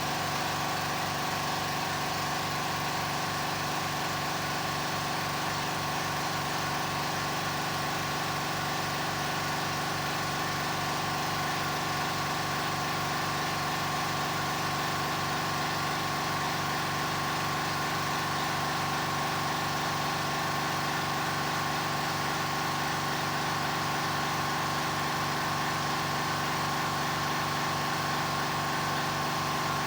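A steady mechanical hum with several held tones and a fast, even low pulsing, like a small motor running unchanged.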